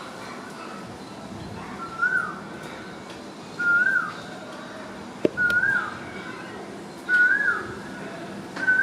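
A bird repeating a short whistled note that rises then falls, about five times at an even pace, over the steady hiss of water spilling from an overflowing tank. A sharp click about five seconds in.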